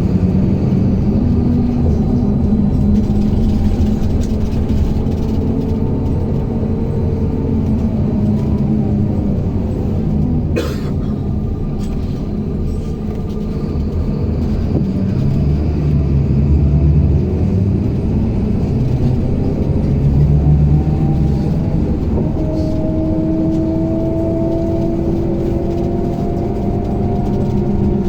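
MAZ-107.485 city bus heard from inside while driving, its engine and drivetrain running over a steady road rumble. There is a single sharp click about ten seconds in. Near the end a whine climbs slowly in pitch as the bus speeds up.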